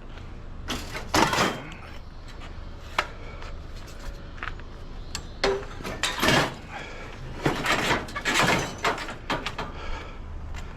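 Scrap being handled and loaded: a series of irregular clanks, scrapes and rattles, over a low steady hum.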